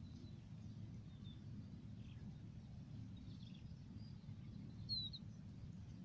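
Faint background: a low steady rumble with a few short, high bird chirps. The clearest is a quick falling chirp about five seconds in.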